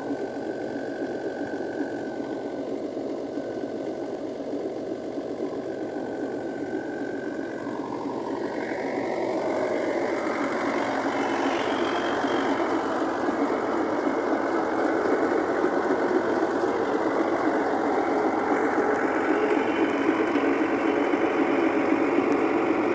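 Tractor diesel engine running with a rapid steady chug, getting louder about nine seconds in and then holding steady.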